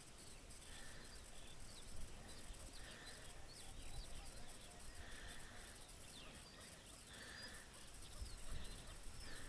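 Faint wild birds calling over open wetland: many short falling whistles, with a short hiss-like note that comes back about every two seconds.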